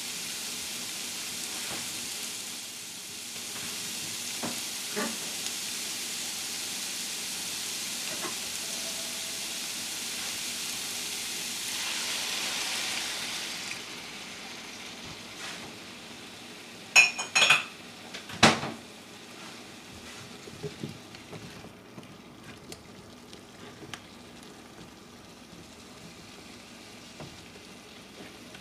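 Cubed butternut squash sizzling in a frying pan. The sizzle drops away suddenly about halfway through. A few loud clatters of kitchenware follow, then quieter frying with light stirring ticks from a spatula.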